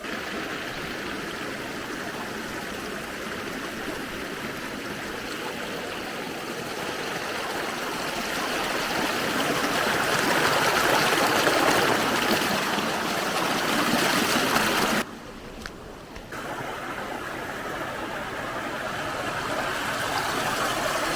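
Mountain stream water rushing, growing louder through the first half. About three-quarters through it drops away suddenly for a second, then comes back.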